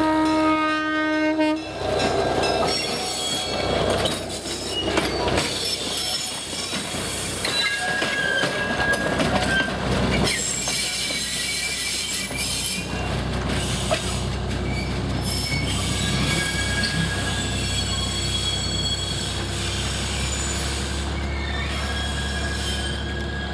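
Narrow-gauge train passing. The locomotive sounds a horn blast that cuts off about a second and a half in, then the steel wheels squeal with several high, shifting tones and clatter as the cars roll by, over a low rumble that grows near the end.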